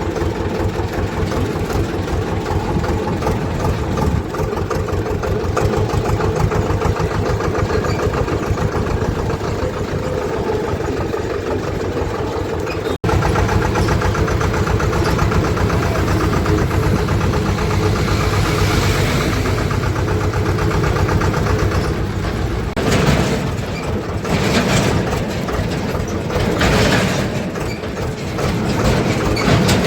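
Swaraj farm tractor's diesel engine running steadily with a throbbing pulse. There is a momentary break about halfway through, and bursts of louder noise over the engine in the last third.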